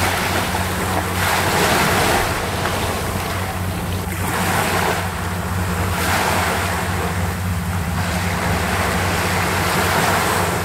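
Big sea waves breaking and surging on the shore, the surf swelling and ebbing several times, with wind buffeting the microphone.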